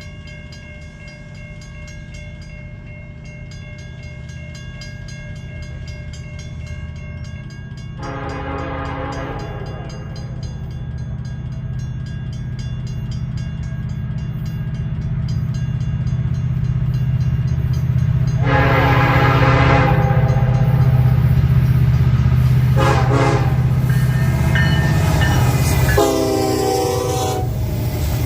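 Norfolk Southern freight train's diesel locomotives approaching, their engine rumble growing steadily louder. The locomotive air horn sounds long, long, short, long, the grade-crossing signal.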